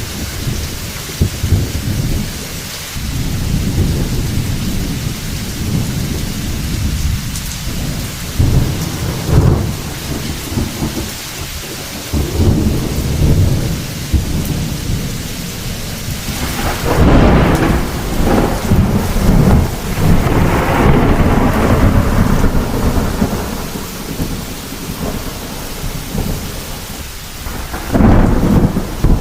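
Heavy thunderstorm: steady rain hissing, with thunder rolling and rumbling throughout, and louder peals of thunder about two-thirds of the way in and again near the end.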